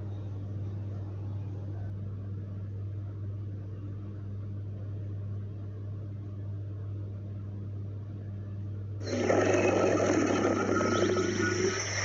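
Faint steady hum. About nine seconds in, a loud recorded alligator call begins, with birds chirping behind it.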